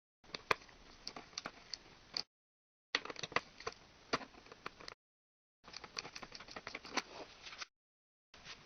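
Irregular light clicks and taps, like small hard objects being handled, in stretches of about two seconds broken by abrupt complete dropouts.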